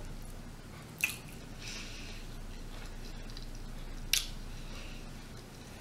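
Close-miked chewing and biting of firecracker shrimp: wet mouth sounds with two sharp bite clicks, one about a second in and another around four seconds.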